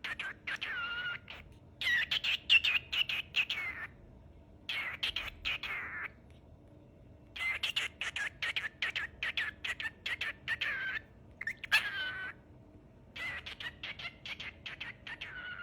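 Cockatiel singing: several phrases of rapid chirps and whistles that slide up and down in pitch, separated by short pauses.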